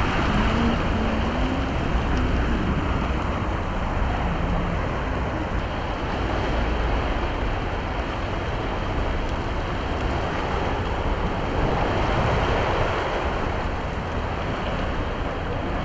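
Heavy rain pouring onto a ferry's open deck, a steady rushing of rain and running water with a low rumble underneath.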